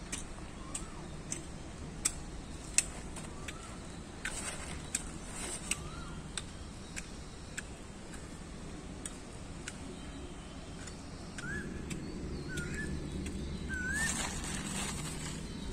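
Short rising bird chirps repeated every second or two, over scattered sharp clicks and two brief rustles, one about four seconds in and one near the end.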